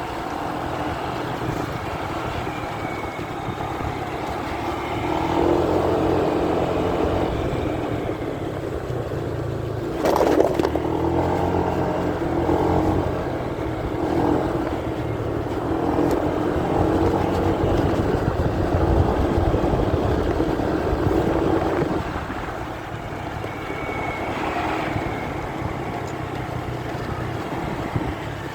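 Motorcycle engine running while riding, heard muffled through a phone microphone in a pocket, with heavy wind and cloth-rubbing noise that swells and fades. A sharp knock about ten seconds in.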